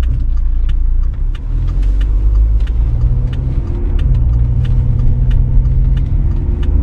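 Volvo V60 D4 diesel heard from inside the cabin, pulling away from a standstill: the engine note rises, drops at a gear change about four seconds in, then climbs again.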